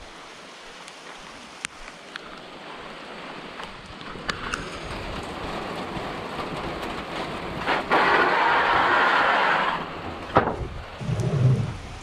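Steady rain, swelling heavier for a couple of seconds about eight seconds in. A few sharp knocks sound through it, and a low thump comes near the end.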